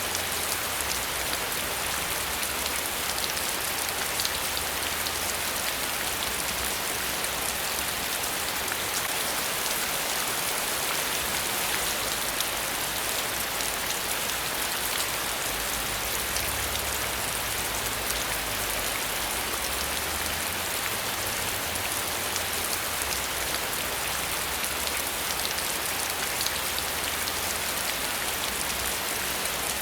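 Steady rain falling: a dense, even hiss of many small drop ticks, with a low rumble underneath that rises and falls.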